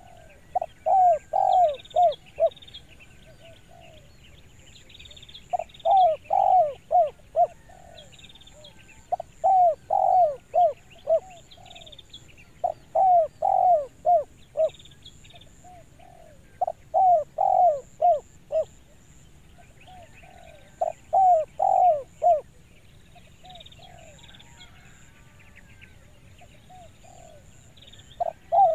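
Spotted dove (tekukur) calling, the clear 'kuk dua' call type: a short coo phrase of about five notes, given six times at roughly four-second intervals, with a pause of several seconds near the end before it starts again. Small birds chirp faintly in the background.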